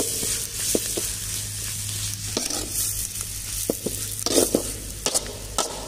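Sliced onions and dried red chillies frying in oil in a wide metal kadai: a steady sizzle, with a metal ladle scraping and knocking against the pan about nine times as the mix is stirred.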